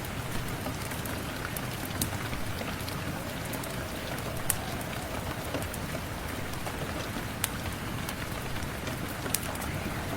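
Steady rain, with a wood fire crackling and giving a sharp pop now and then.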